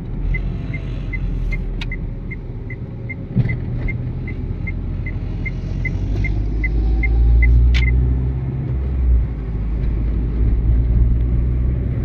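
Renault Twingo driving, its engine and road rumble heard from the cabin, with a rapid, regular indicator ticking, about three ticks a second, that stops about eight seconds in. A few light knocks from the car sound along the way.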